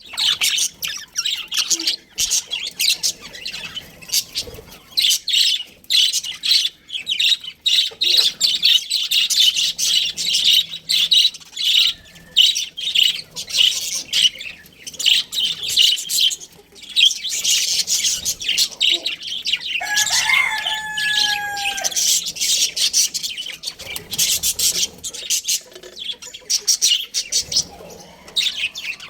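A flock of budgerigars chattering and chirping, fast and continuous. About two-thirds of the way in, one longer, lower call is held for about two seconds.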